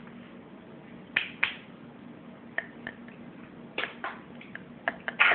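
Short sharp clicks and smacks of a person eating, a dozen or so at irregular spacing, with a louder cluster near the end.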